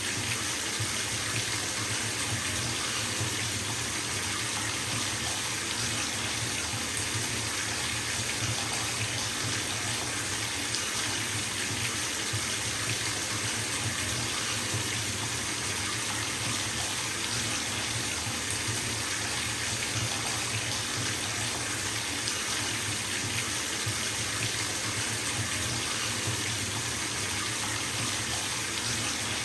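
Bathtub tap running steadily, water pouring into a filling tub with an even, unbroken rush.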